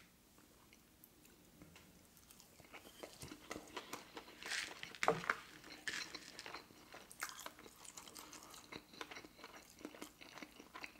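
Close-miked chewing of a sushi roll with crispy tempura flakes: irregular wet mouth clicks and light crunches. They start after a quiet first couple of seconds, with one louder crunch about halfway through.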